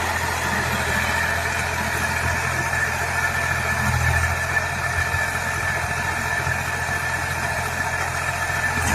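HMT 4022 tractor's diesel engine running steadily.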